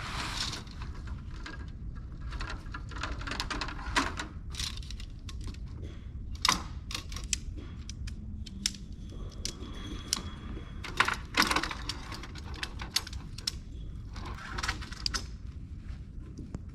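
Camping gear being handled: irregular clicks, knocks and clacks with rustling between them, over a steady low rumble.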